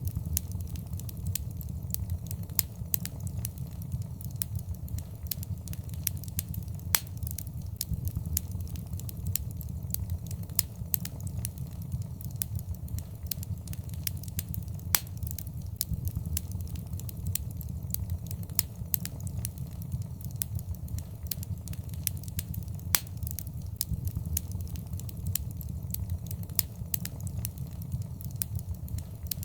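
Fire burning in a fireplace, crackling steadily: frequent sharp pops and snaps, a few louder than the rest, over a steady low rumble.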